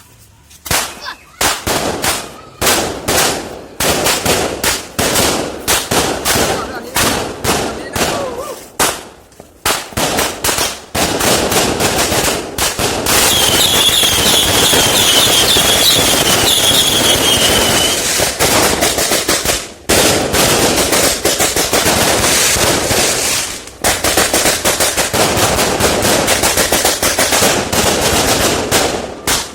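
Fireworks going off in rapid runs of sharp bangs. About halfway through, the bangs merge into a dense continuous crackle with a high wavering whistle for several seconds, then return to runs of bangs.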